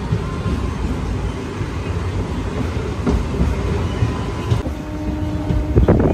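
Passenger train rolling slowly out of a station, heard from an open coach doorway: a steady rumble of wheels on the rails, with a few sharp clacks over rail joints near the end.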